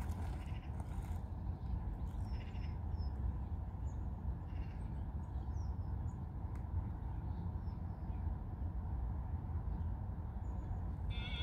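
Small birds chirping here and there, short high calls scattered through, over a steady low rumble.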